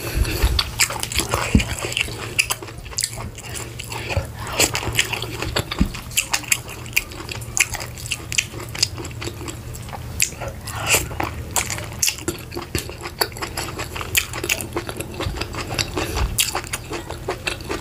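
Close-miked eating sounds of a person chewing a mouthful of vegetable soup eaten by hand: many irregular wet smacks and clicks of the mouth, over a low steady hum.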